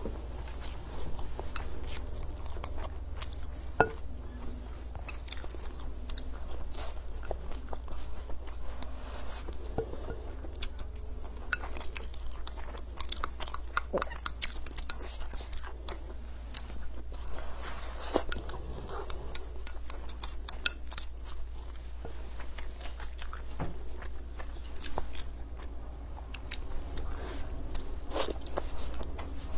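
Close-miked chewing of mouthfuls of rice with braised pork belly and preserved mustard greens (mei cai), with chopsticks now and then clicking against a ceramic rice bowl.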